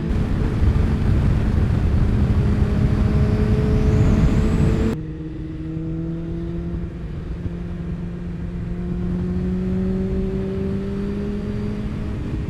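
Motorcycle engine running at road speed under heavy wind rush. About five seconds in, the wind noise drops away abruptly, and the engine note then rises slowly as the bike accelerates.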